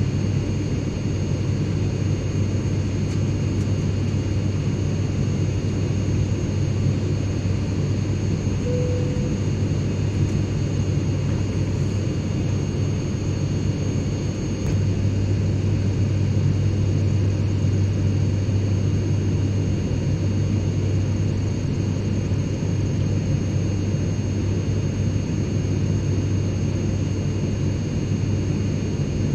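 Airplane cabin interior in flight: a steady, even drone of engine and airflow noise with a strong low hum and faint steady high whines.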